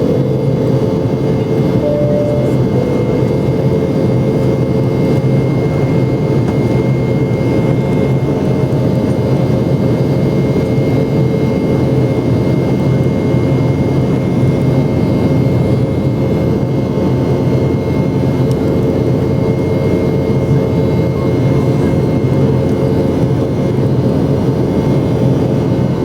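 Boeing 717's rear-mounted Rolls-Royce BR715 turbofans heard from inside the cabin: a steady, loud jet engine noise with a few constant whining tones.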